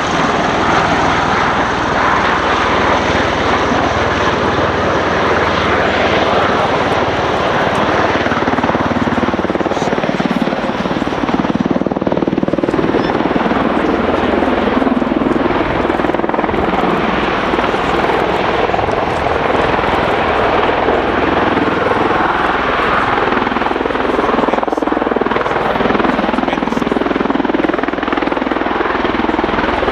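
Bell Boeing CV-22B Osprey tiltrotor flying at slow speed, its two proprotors and Rolls-Royce AE1107C turboshaft engines making a loud, steady noise that wavers slightly in pitch.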